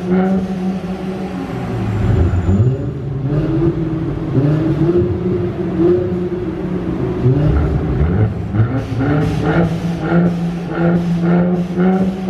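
Car engine revved again and again through an aftermarket exhaust. The pitch climbs and falls with each blip over a steady idle, with short sharp pops at the start and near the end.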